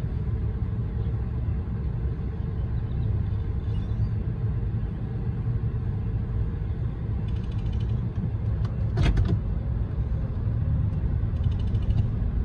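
Union Pacific limestone freight train rolling through a grade crossing, heard from inside a stopped car as a steady low rumble, with one sharp clatter about nine seconds in.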